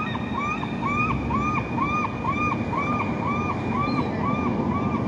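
A bird calling over and over, short arched chirps about two a second, over a steady low rumble of wind or traffic noise.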